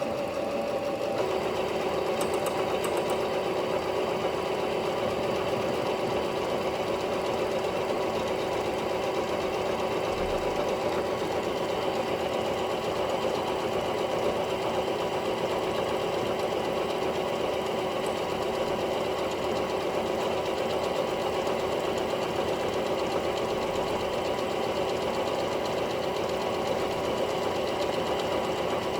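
Singer Curvy sewing machine running steadily at speed, its motor and needle mechanism going without a break; its pitch drops slightly and settles about a second in.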